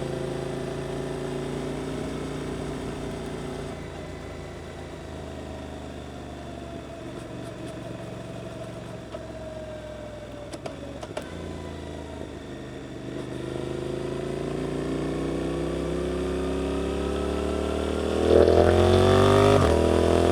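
Suzuki GSX-8S parallel-twin engine through an Arrow aftermarket exhaust on the move. The revs fall away as the bike slows, then climb steadily under acceleration and are loudest near the end, with a brief dip in pitch just before the end.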